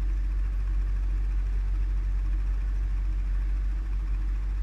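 ATV engine running steadily with a constant low rumble.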